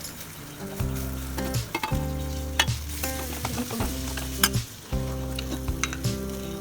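Hot spiced oil sizzling as raw mango pieces are stirred together with it in a pan, with sharp clicks of the spoon against the pan. Background music with held chords plays under it.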